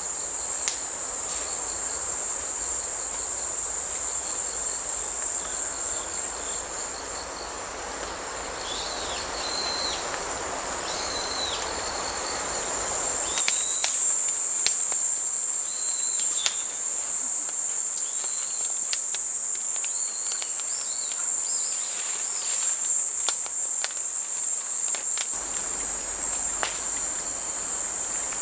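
Autumn grass insects, crickets among them, chirping in a steady high-pitched chorus, with a few scattered clicks. Running creek water sounds underneath for the first half and drops away suddenly about halfway through.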